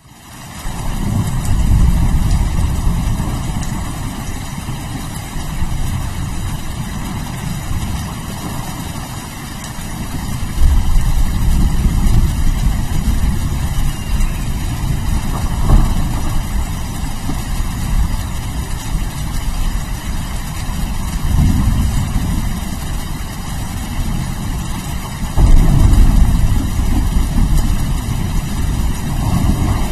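Steady rain with rolling thunder: deep rumbles swell and fade several times over the steady hiss, loudest about ten seconds in and again about a second before the end.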